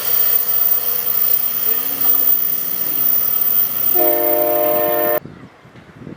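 Passenger train running by close, with a loud steady rumble and hiss. About four seconds in, its multi-chime air horn sounds a chord for a little over a second, then everything cuts off suddenly.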